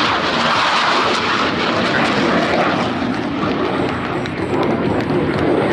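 Blue Angels F/A-18 Super Hornet jet engines: the diamond formation's loud, steady rushing jet noise as the four jets fly their roll.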